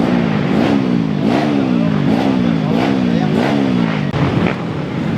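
Motocross bike engine revved in a run of throttle blips. The pitch jumps up and sags back about every two-thirds of a second, seven times over, then drops away near the end.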